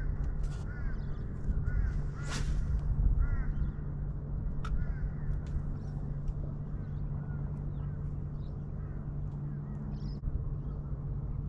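Birds calling with short, repeated cries several times in the first few seconds, over a steady low hum and rumble. Scattered light clicks run through it, with one sharper rushing sound about two seconds in.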